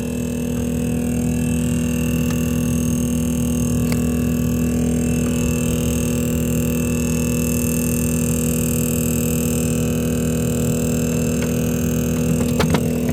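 Freezer fan of a Panasonic inverter refrigerator running with a loud, steady hum of several fixed tones, which the owner blames on ice building up in the freezer and blocking the airflow. A few short clicks come near the end.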